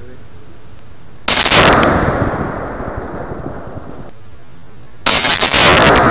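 Two loud blasts about four seconds apart from shooting small Coleman propane cylinders in a fire. Each blast is a short burst of sharp cracks followed by a long fading rush.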